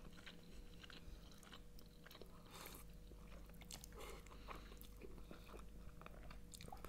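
Faint chewing of funchoza glass noodles with chicken and vegetables, two people eating, with many small wet mouth clicks and smacks.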